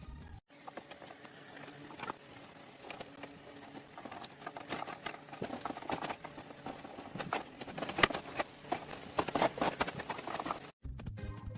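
Rapid, irregular sharp taps and clicks, growing denser and louder after about four seconds.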